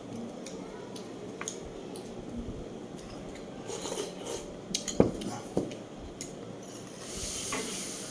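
Mukbang eating sounds: scattered clinks and clicks of dishes and utensils with soft chewing noises, the sharpest click about five seconds in and a short hiss near the end.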